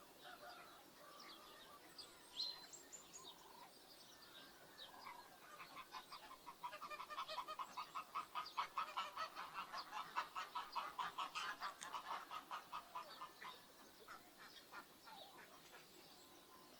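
Domestic geese honking in a fast, steady run of calls that starts about five seconds in, is loudest in the middle, and dies away about fourteen seconds in. A small bird gives one sharp chirp about two seconds in.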